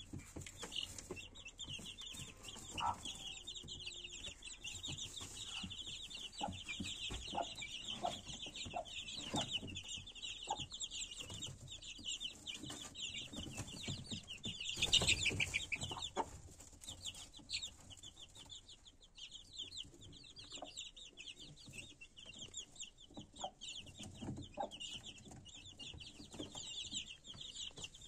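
A brood of young chicks peeping continuously in a dense, high chorus, with low clucks from the broody mother hen now and then. The chorus is briefly louder about halfway through.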